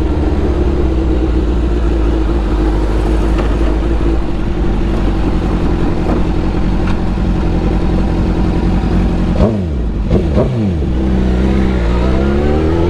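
2001 Suzuki GSX-R1000's inline-four engine running at a steady cruise under a rush of wind noise. About ten seconds in, the revs dip and pick up twice, then climb steadily as it accelerates near the end.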